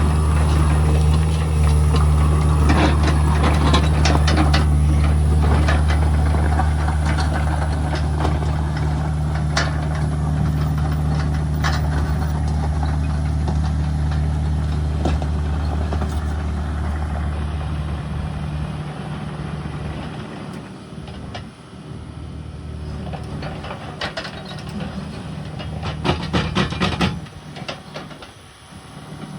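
Heavy diesel equipment engine running steadily, with repeated clanks and rattles; the engine drops much lower about two-thirds of the way through, and a quick cluster of knocks comes near the end.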